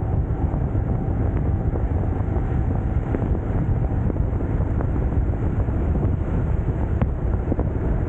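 Steady wind buffeting the microphone over a BMW R1150GS Adventure's boxer-twin engine running at riding speed, with a few faint ticks.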